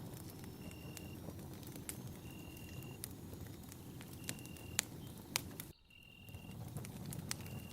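Campfire burning, with a low steady rumble and scattered crackles and sharp pops, two of them louder near the middle. A short high-pitched chirp repeats about every two seconds. The sound cuts out briefly near the end and fades back in.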